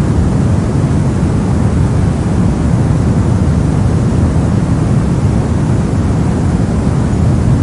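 Brown noise: a steady, even rumble-like hiss with its energy weighted heavily toward the low end, unchanging throughout.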